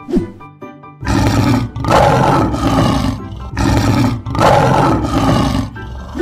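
Lion roar sound effect: a few long roars in a row, starting about a second in, over light background music.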